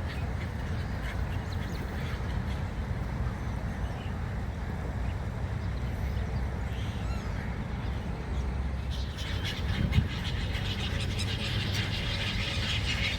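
Gulls calling, scattered at first and then a busy chorus of many overlapping calls from about nine seconds in, over a steady low rumble. A single thump near ten seconds.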